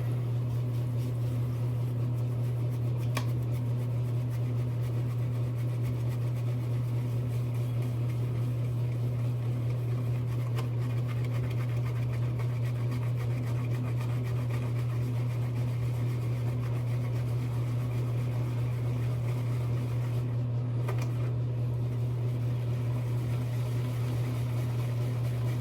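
A steady low hum, like a running fan, is the loudest sound throughout. Over it, a shaving brush works soap into a lather in a bowl.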